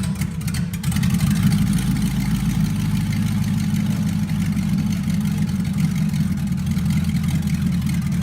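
Swapped 5.3-litre LS V8 engine in a 1990 Toyota Land Cruiser FJ62 running with a steady low rumble, getting louder about a second in.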